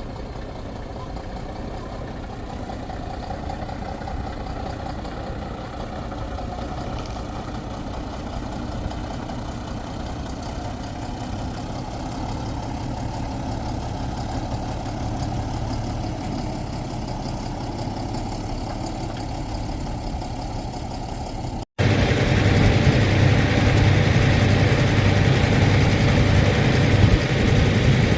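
Mercedes-Benz 2426 truck's diesel engine idling steadily. After a sudden cut about three-quarters of the way through, it is much louder and closer.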